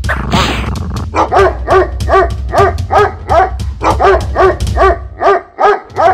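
A dog barking rapidly and repeatedly, about two or three barks a second, starting about a second in.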